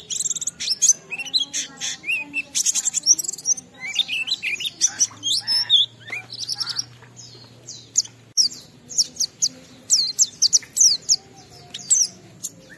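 Pet white-eye (pleci) singing a long, fast warbling song: rapid high chirps, quick falling notes and short trills following one another with hardly a break.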